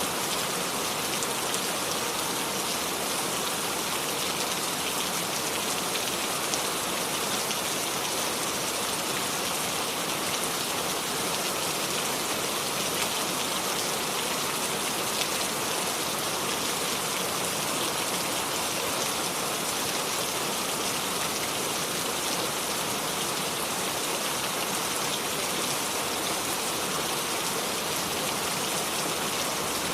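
Steady rain falling with no thunder, an even hiss of drops on surfaces that holds at the same level throughout.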